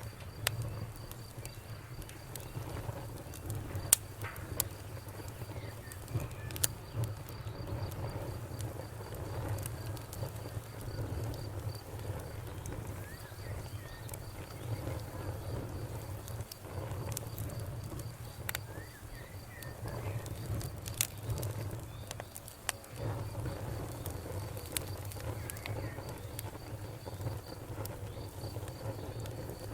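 Wood fire burning in a fireplace: a steady low rumble of flames with scattered sharp crackles and pops, the loudest pop about four seconds in and others near seven and twenty-one seconds.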